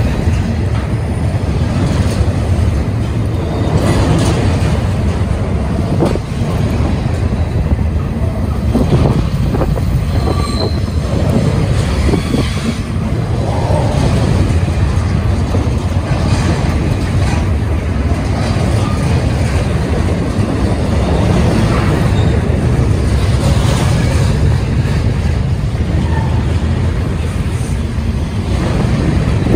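Union Pacific double-stack intermodal train's container well cars rolling past: a steady, loud, low rumble of steel wheels on rail, with occasional clanks.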